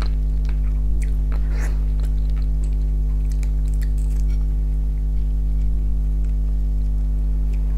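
Close-up mouth sounds of chewing fried fish, with scattered small wet clicks and smacks, over a steady low electrical hum that is the loudest thing throughout.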